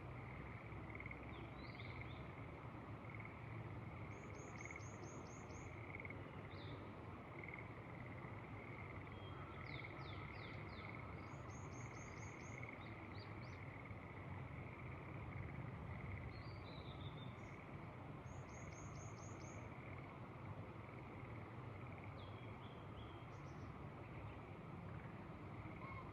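Rural outdoor ambience: a steady noise bed with a continuous pulsing chorus, over which a small songbird sings a short, fast, high trill three times, roughly every seven seconds, among other scattered bird chirps.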